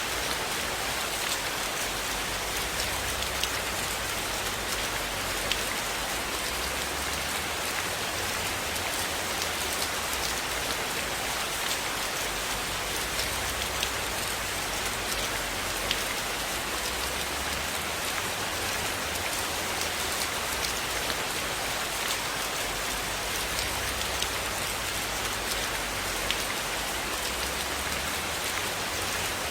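Steady rain falling on a surface, an even hiss with many small drop ticks and a few sharper ones scattered through.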